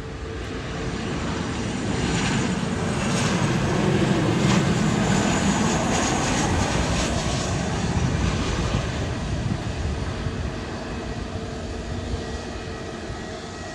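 Jet engines of a Gol Boeing 737 coming in to land, swelling to a peak about four to five seconds in as the airliner passes, then slowly fading.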